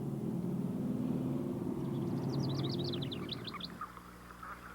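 A steady low engine hum that fades out about four seconds in. A bird sings a quick run of high chirps over it from about two seconds in.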